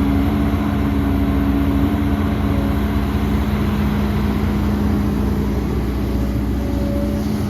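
Heavy diesel earthmoving machinery engine running steadily with a low, even drone.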